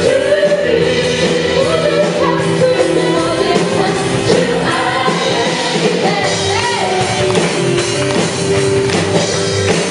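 Live worship band playing with voices singing, a full praise-band sound with drums and guitar.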